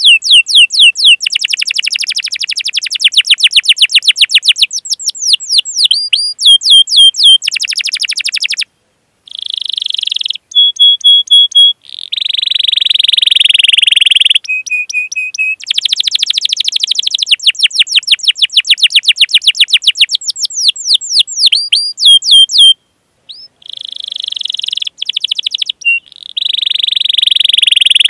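Domestic canary singing a long, loud song: fast trills of rapidly repeated notes, held whistled notes and buzzy rolls, with brief pauses about nine and twenty-three seconds in.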